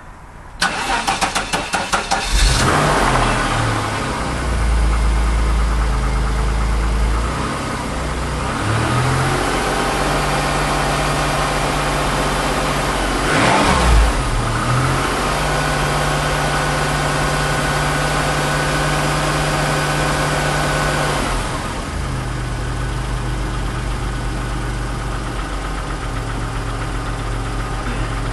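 1991 Chrysler LeBaron's 3.0-litre V6 cranked by the starter for about two seconds on a battery the owner thought sounded a little low, then catching on a cold start after sitting about seven months. It runs at a raised cold idle with a brief rev or two and settles to a lower idle about three-quarters of the way through.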